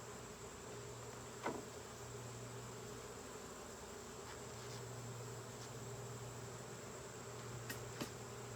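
Honeybees buzzing in a steady hum around an opened hive, with a light sharp knock about a second and a half in and two more close together near the end.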